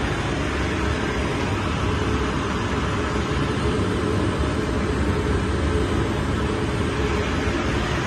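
Industrial microwave tunnel dryer running: a steady, unchanging machine noise, heaviest in the low end.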